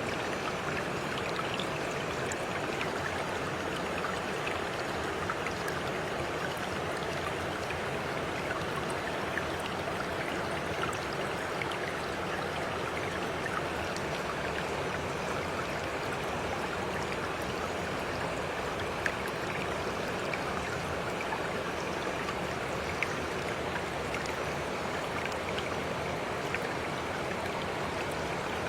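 Steady flow of running water, like a stream, with small droplet ticks scattered through it.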